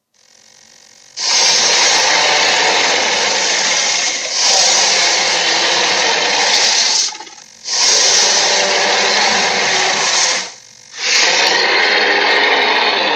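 Made-up Acrocanthosaurus roars for a dinosaur sound-effects reel: four long, harsh roars of about three seconds each, with short breaks between them.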